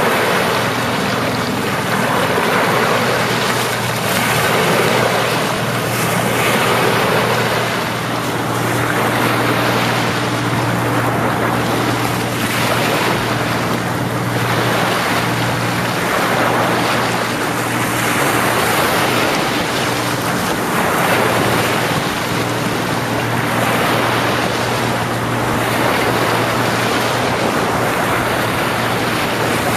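Sea waves breaking and washing up on a beach, swelling in repeated surges every couple of seconds, over a steady low hum.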